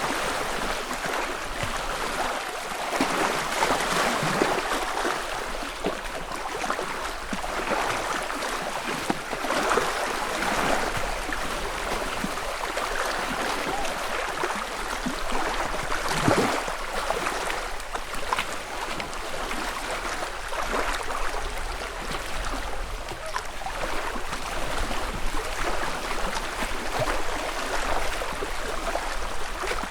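Small lake wavelets lapping against the shore in soft, irregular surges every second or two, with occasional sharper little splashes, the clearest about sixteen seconds in.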